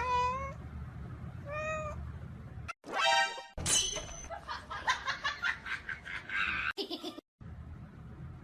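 A domestic cat meowing: two short meows in the first two seconds and a longer one about three seconds in, followed by a run of quick knocks and clatter.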